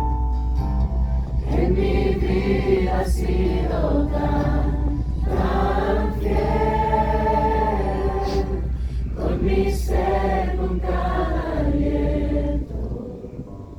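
A group of voices singing a worship song together in long, held notes over a steady low accompaniment. The accompaniment cuts out near the end and the singing fades.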